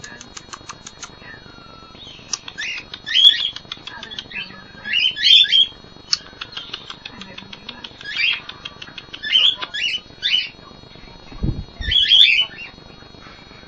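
Cockatiels calling, short harsh squawks repeated every second or two, mixed with bursts of rapid ticking chatter. A low thump comes near the end.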